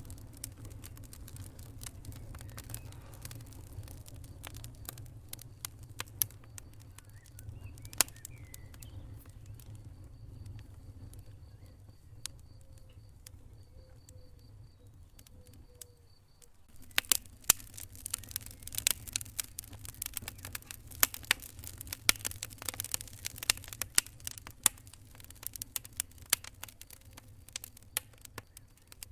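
Wood fire crackling in a fireplace: scattered sharp pops and snaps over a low steady rumble. After a brief drop a little past halfway, the crackling comes denser and louder.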